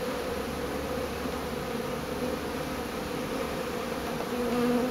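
Honeybee swarm buzzing in a steady hum, with a louder buzz swelling near the end.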